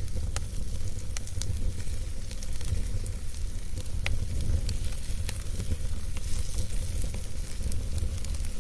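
Wood campfire burning, with scattered sharp crackles and pops over a steady low rumble and hiss.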